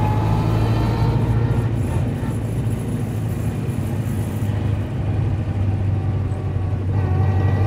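Ford Model A's four-cylinder engine running steadily while the car drives at city speed, heard from the cab with road and wind noise; it eases a little quieter in the middle.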